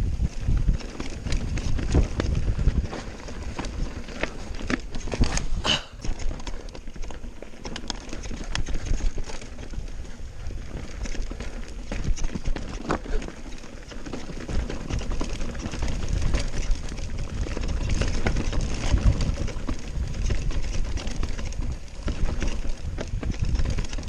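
Mountain bike descending a rough trail: tyres clattering over rocks and roots, with the frame and chain rattling under constant small knocks and a deep rumble of wind on the microphone. A short high squeal about six seconds in.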